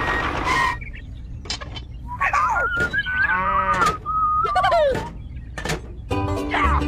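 A string of short farm-animal calls, each rising and falling in pitch, with a few sharp clicks between them.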